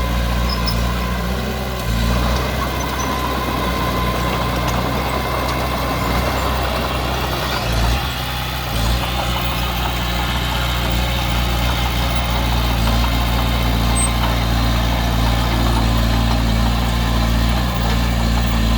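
Heavy diesel engine of earthmoving machinery running steadily, with brief changes in engine load about two seconds in and again around eight seconds.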